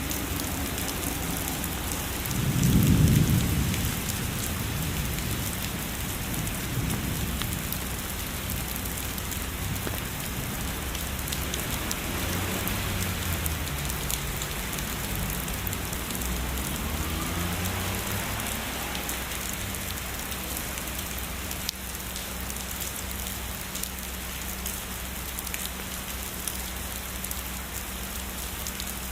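Heavy rain falling steadily, with a low roll of distant thunder swelling and fading about three seconds in.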